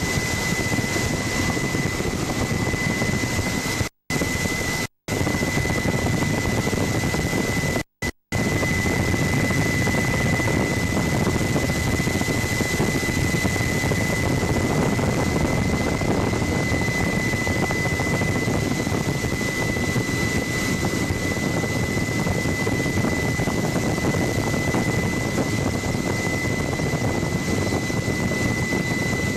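Helicopter in flight: a loud, steady rotor and engine din with a steady high whine. The sound cuts out completely for a split second three times early on, about 4, 5 and 8 seconds in.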